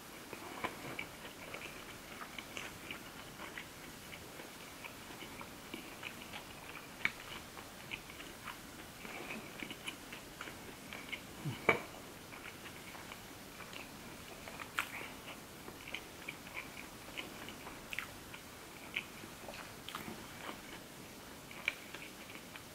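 Close-up wet chewing of a mouthful of seafood and green onion pancake (pajeon), with many small smacking clicks from the mouth and one louder click about halfway through.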